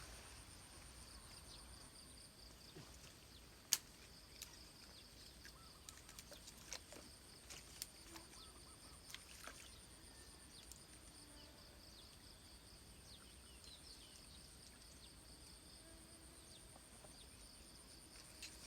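Insects trilling steadily at two high pitches, with scattered faint clicks and rustles and one sharp click about four seconds in.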